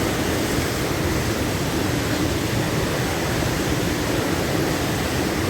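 A waterfall's falling water making a steady, unbroken rush, heaviest in the low range.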